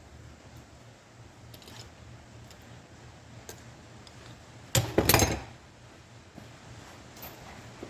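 A short burst of metallic clattering and clanking about five seconds in, from clutch parts or tools being handled during a tractor clutch teardown, with a few faint light taps around it.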